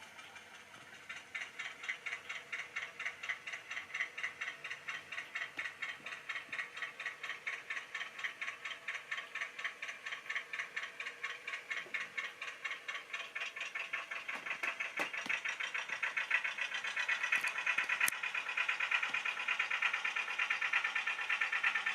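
Model railway train running on the track, with a steady rhythmic clicking of wheels and mechanism at about three to four clicks a second, growing louder from about two-thirds of the way through.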